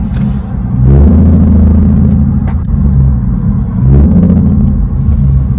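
Infiniti G37's 3.7-litre V6 accelerating hard, with a loud, deep exhaust rumble. The engine note dips and climbs again at gear changes, about one second in and again about four seconds in.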